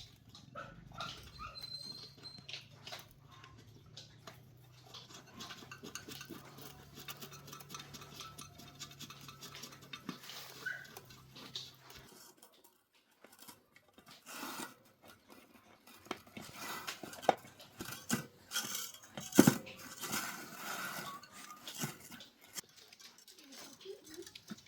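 Hand tools and metal motorbike parts clinking and knocking during repair work, with a low steady hum under the first half that stops midway. The knocks grow busier and louder in the second half, with one sharp knock standing out.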